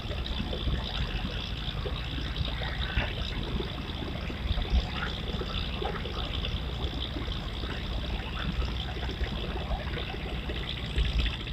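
Steady trickling river water with small splashes over a low rumble.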